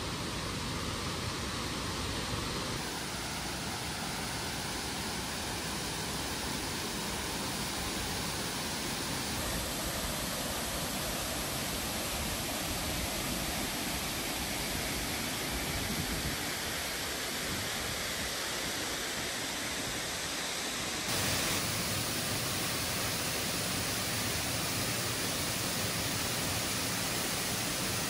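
Waterfall in full flow after heavy rain: a steady rush of falling water, shifting abruptly in level and tone a few times.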